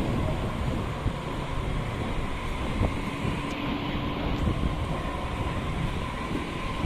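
Passenger train running: a steady rumble and rushing noise with a faint constant whine and a few light knocks.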